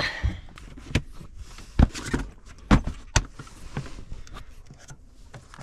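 A few sharp knocks and clicks, about five in three seconds, like objects being handled and set down.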